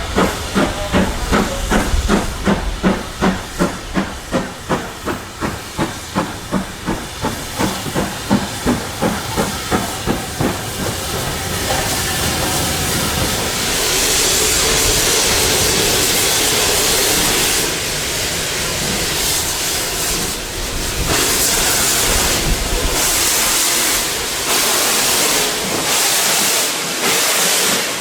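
Steam locomotive exhaust beats, an even chuffing of about two to three beats a second that fades away over the first ten seconds. It gives way to a loud, steady hiss of escaping steam, which turns choppy with short breaks near the end.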